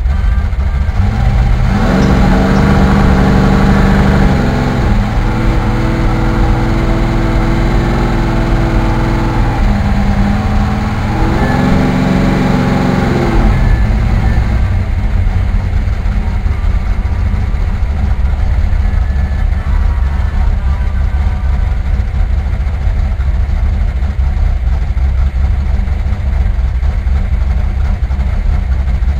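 Car engine pulling under acceleration, its pitch climbing and dropping back at about 5 and 10 seconds in, as at gear changes. It then settles into a steady low rumble while cruising.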